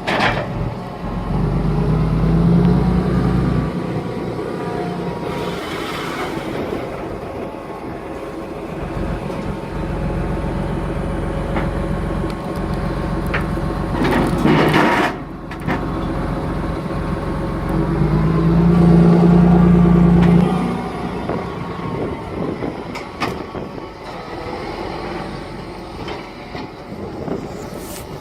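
John Deere 8530 tractor's six-cylinder diesel engine running steadily, twice pulling harder and louder as it takes the load of the hydraulic log splitter. There is a short sharp noise about halfway through.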